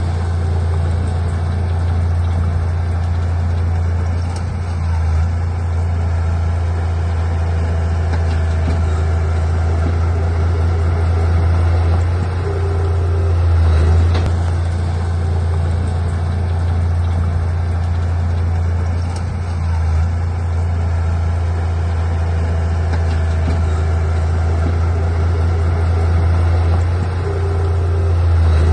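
Heavy earthmoving machinery's diesel engine running steadily with a deep low drone, swelling in loudness a few times as it works under load.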